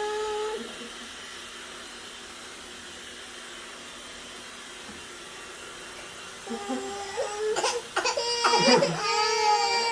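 Hair dryer running steadily. A baby vocalizes briefly at the start. From about six and a half seconds in, babies let out loud high squeals and wails that turn toward crying near the end.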